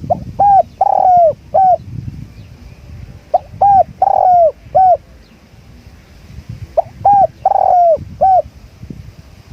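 Spotted dove cooing three times, about every three and a half seconds, each phrase four notes with a longer, falling third note. A low wind rumble sits underneath.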